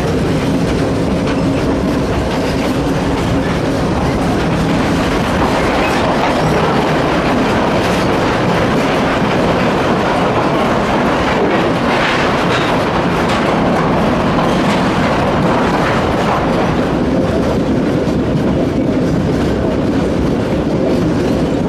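Cumbres & Toltec narrow-gauge train rolling along the track: a steady, loud clatter of the cars' wheels on the rails.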